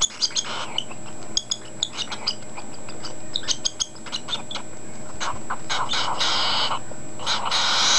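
Unweaned cockatiel chick begging while being syringe-fed baby bird formula: a rapid run of short, squeaky ticks, with longer raspy, hissing begging calls about six seconds in and again near the end.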